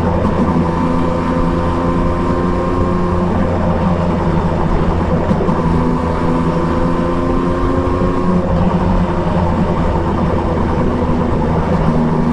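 Triumph Trident 660's inline three-cylinder engine with an Akrapovic exhaust, running steadily under way. Its pitch steps up or down a few times as the revs change.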